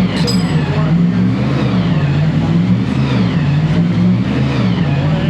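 Motor vehicle engine running steadily, its low hum rising and falling slightly in pitch.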